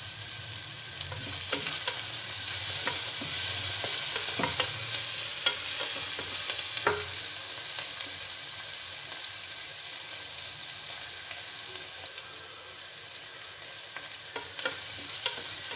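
Sliced onions with salt frying in hot oil in a pressure cooker, a steady sizzle, louder in the first half. A spatula clicks and scrapes against the pan now and then as the onions are stirred.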